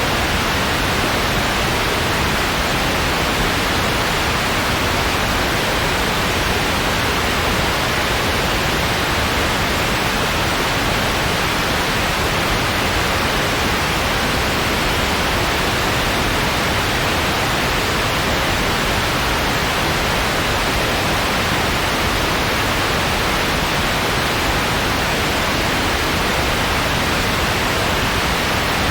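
Steady white noise: an even, unbroken hiss at constant level.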